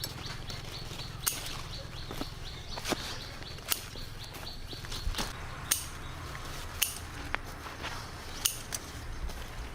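A series of sharp, short snaps or knocks at uneven intervals, roughly one a second.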